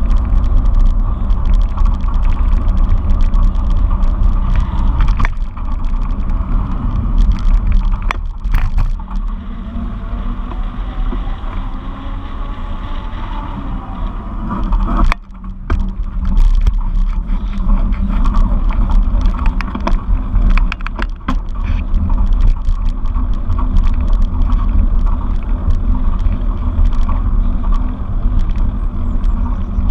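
Wind buffeting the microphone and a steady low rumble from riding a bike, with many sharp rattles and knocks. It eases for a few seconds near the middle.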